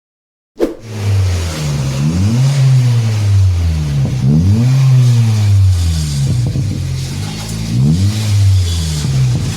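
Car engine being revved in repeated blips through an aftermarket stainless-steel racing exhaust, the note rising and falling every second or two. It cuts in abruptly about half a second in.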